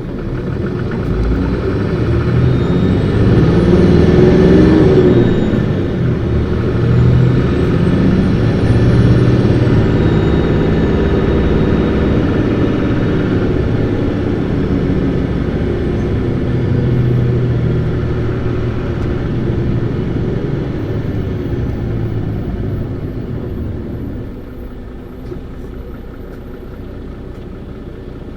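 Isuzu Erga (PKG-LV234Q2) city bus diesel engine pulling hard, revved high through the gears, with a high whistle rising and falling twice in the first ten seconds. It then runs on steadily and eases off, growing quieter near the end.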